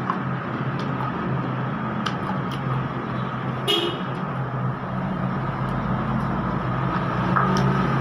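A motor vehicle engine running steadily close by, with a short horn toot about halfway through and scattered light clicks.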